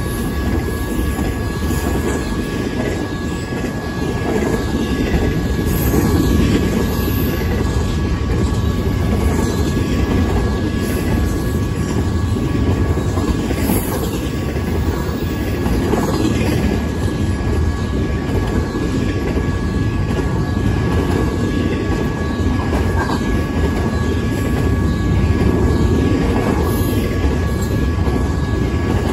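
Double-stack intermodal container cars of a freight train rolling past at speed: a steady rumble of steel wheels on rail, with a faint steady high tone above it.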